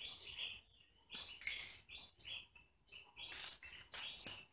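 Birds chirping in the background: short, high calls in quick runs, a cluster about a second in and another near the end.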